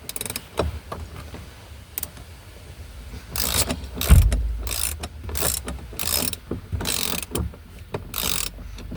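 Ratchet spanner being worked in short strokes, a burst of clicking about twice a second from a few seconds in, with a low thump about four seconds in.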